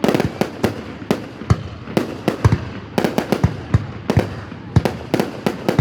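Fireworks going off in a rapid, irregular string of sharp bangs, about three or four a second, each followed by a short echo.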